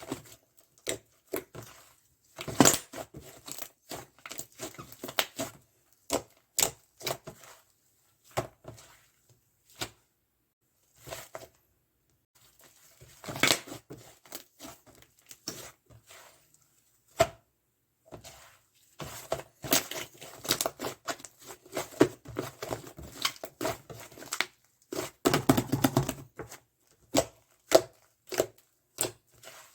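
White slime squished and pressed by hand, giving irregular sticky crackling and popping clicks, with a few denser squelching stretches.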